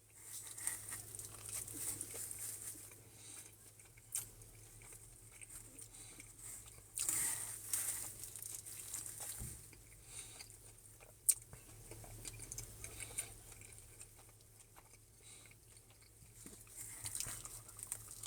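Faint chewing and biting of pizza, with scattered small mouth and handling noises and one sharp click about eleven seconds in.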